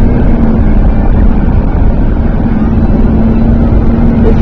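Steady engine and road noise heard inside a moving car's cabin, with a constant low hum.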